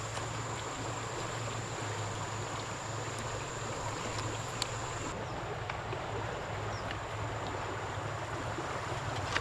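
Steady rush of flowing water, with a thin high whine that drops away about halfway through and a few faint clicks.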